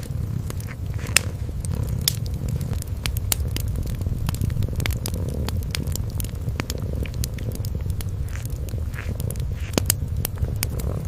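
Kitten purring low and steady, with a wood fire crackling over it. Sharp pops come scattered throughout, the loudest about a second in and again near the ten-second mark.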